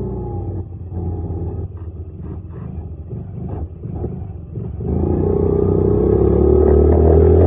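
Dirt bike engine running at low revs with scattered clattering knocks. About five seconds in it gets louder and its pitch rises steadily as it accelerates.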